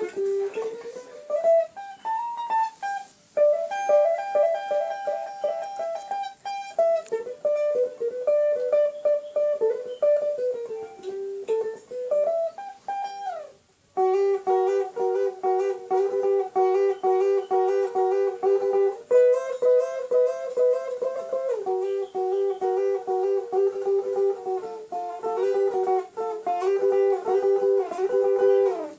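A plucked string instrument playing a single-note melody with sliding notes. After a brief pause about halfway through, it plays a fast picked passage of repeated two-note figures.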